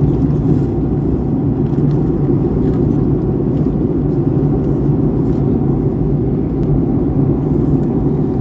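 Jet airliner cabin noise in flight: the engines and rushing air heard from inside the cabin as a loud, steady low rumble with a faint even hum above it.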